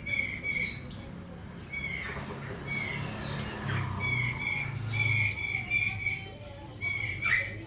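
A cinereous tit (gelatik batu) calling. It repeats short whistled notes at one steady pitch, and about every two seconds gives a sharp, high note that sweeps down in pitch.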